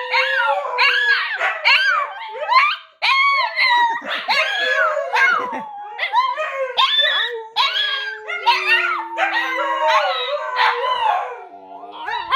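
Husky-cross (pomsky) dogs howling together: one holds long, steady howls while the others give quick rising-and-falling howls and yips over it.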